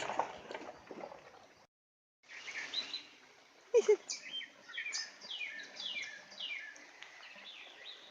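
Songbirds singing outdoors, mostly a run of quick downward-sliding whistled notes repeated several times, after a brief cut in the sound about two seconds in. Two sharp clicks about four seconds in are the loudest thing.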